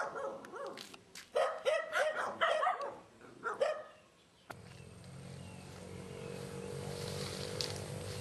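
A dog barking, several short barks in the first few seconds. About halfway through the barking stops and gives way to a steady low hum and hiss.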